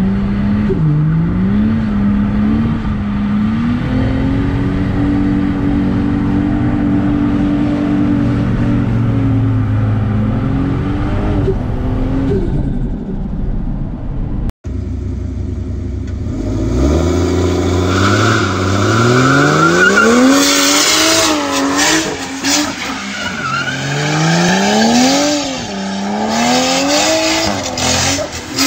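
A V8 car driving, heard from inside the cabin: the engine rises and falls in pitch, then holds a steady drone while cruising. After a cut about halfway through, a V8 revs hard up and down again and again with tyre squeal, as the rear tyres spin through skids.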